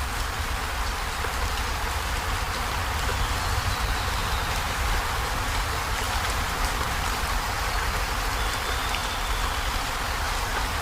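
Heavy rain falling steadily on a corrugated zinc roof: an even hiss with a low rumble beneath it.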